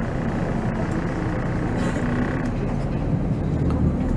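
Volvo B7R coach's diesel engine running steadily under way, heard from the driver's seat as a low engine drone mixed with road noise.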